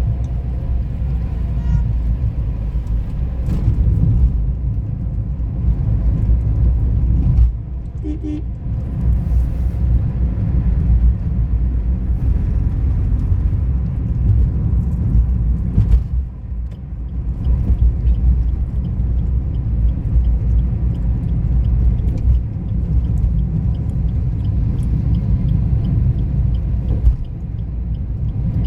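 Motorcycle on the move: a steady low rumble of engine, road and wind on the microphone, dipping briefly about seven seconds in and again near the end.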